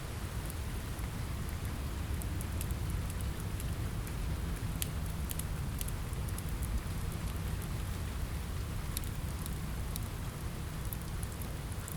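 Steady rain on a window mixed with a crackling fireplace: an even, low rumbling hiss with scattered sharp crackles and ticks throughout.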